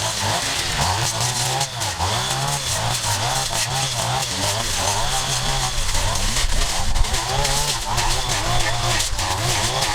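Small petrol engine of a handheld yard power tool, its revs rising and falling over and over as it cuts through overgrowth.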